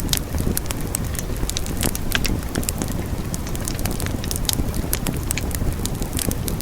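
Wood fire burning in a fireplace, crackling with many short sharp pops over a steady low rumble of the flames.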